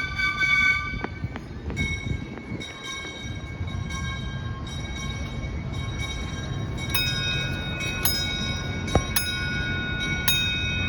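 Miniature railroad crossing-signal bell ringing, each strike leaving a lingering ring. The strikes are sparse at first and come about once or twice a second from about seven seconds in, over the low rumble of the passing miniature train.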